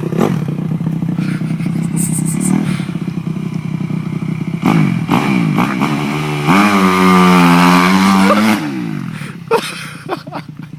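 Motocross dirt bike engine revving up and down as it rides, loudest for a couple of seconds about two-thirds through, then fading.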